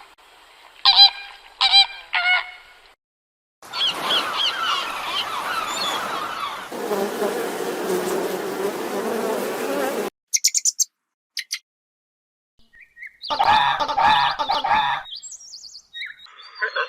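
Animal calls from several short clips in quick succession: three short pitched calls, then a dense chorus of many overlapping chirping calls for several seconds, a few brief high chirps, and another burst of calls near the end.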